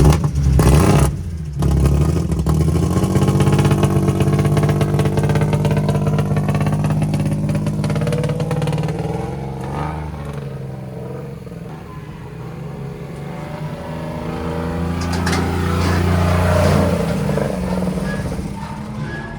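BMW E36 drift car's blown engine running as the car is driven onto a trailer. It revs in short, loud bursts at first, then holds steady revs, dips, and swells again later.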